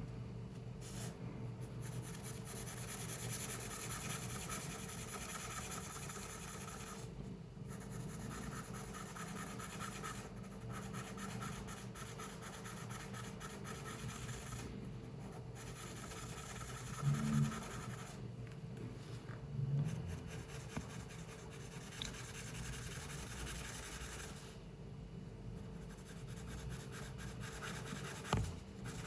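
Drawing strokes on paper: a steady scratching that stops briefly a few times, over a constant low hum. Two soft low thumps come a little past halfway, and a sharp click near the end.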